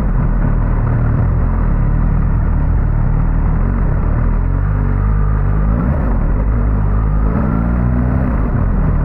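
Suzuki GSX-S1000GT's inline-four engine running under way, its pitch rising and falling with the throttle, over steady road and wind noise.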